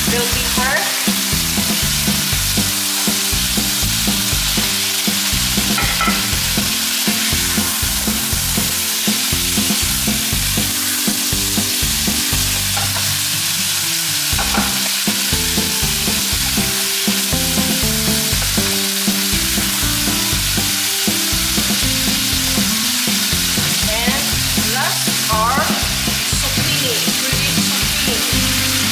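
Chicken strips, onion and yellow bell pepper sizzling in a nonstick frying pan while being stirred with a spatula: a steady, loud frying hiss.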